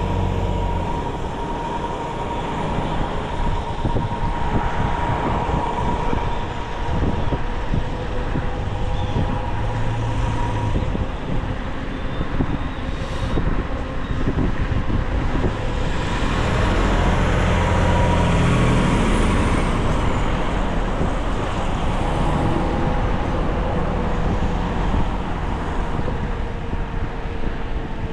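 E-bike ride through town traffic: road and wind noise on the microphone, with a steady whine running underneath. The noise swells for a few seconds about two-thirds of the way through, as with a vehicle passing.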